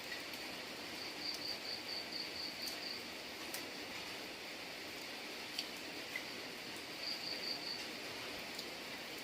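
Steady rain falling, with scattered sharp drips. Over it a high, pulsed chirping call, about five pulses a second, comes in a run about a second in and again briefly near the end.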